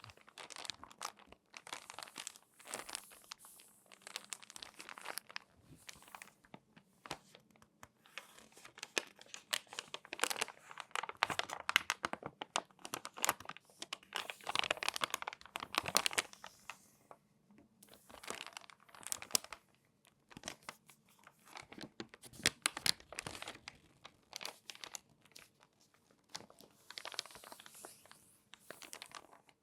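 Crinkly glossy magazine pages being folded and handled, a dense crackling in bursts with short quiet pauses between them.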